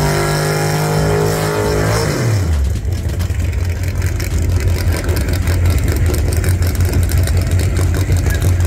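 Fox-body Ford Mustang drag car's engine held at a steady high rev through a burnout, then dropping about two seconds in to a low, uneven idle as it rolls toward the starting line.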